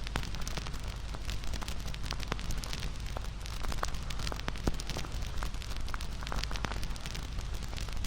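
Wood campfire burning steadily, with frequent irregular sharp crackles and pops over a low rushing of flames.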